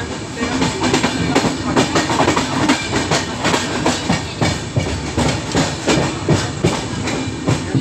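Moving passenger train coach heard from inside at an open window: wheels clicking and clacking over the rails over a steady running rumble.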